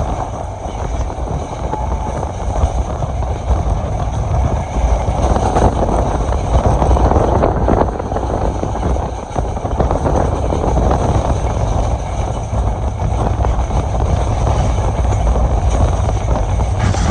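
Passenger train running at speed: a steady, loud rumble of the train on the track mixed with rushing air.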